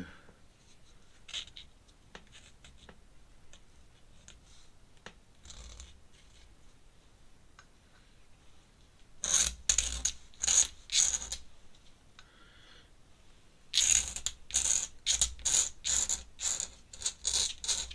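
Pen scratching across paper in quick drawing strokes: faint ticks at first, then a short group of strokes about nine seconds in and a longer run of rapid strokes from about fourteen seconds.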